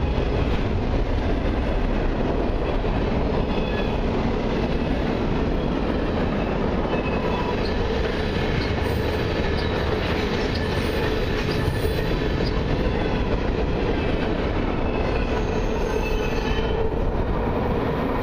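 Freight cars (covered hoppers, a bulkhead flatcar, tank cars) rolling past close by at speed: a steady rumble of wheels on rail with faint wheel squeal. The sound eases near the end as the last car clears.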